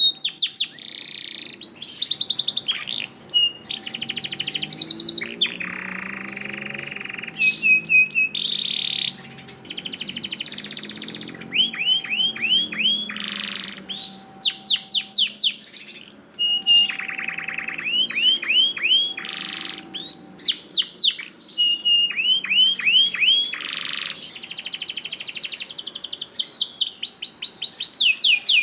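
Canary singing a long, continuous song of rapid rolled trills and quick repeated downward-sweeping notes, one phrase running into the next.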